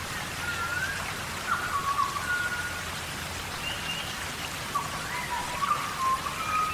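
Steady tropical rain falling on rainforest foliage, an even hiss of drops. Short whistled calls, some gliding up or down in pitch, sound over it every second or so.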